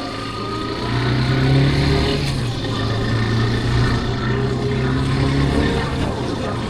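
Yamaha Factor 150's single-cylinder four-stroke engine running under throttle with a steady note that firms up about a second in and eases off near the end, with wind rush over the microphone.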